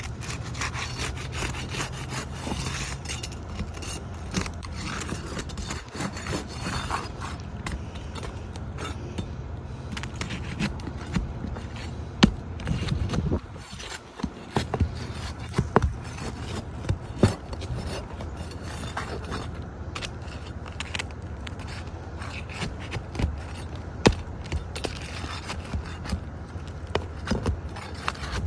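Asphalt roof shingles being worked loose with a pry tool: continuous scraping and rasping as the sealed tabs are broken free, with frequent sharp clicks and a few louder knocks. A steady low hum runs underneath.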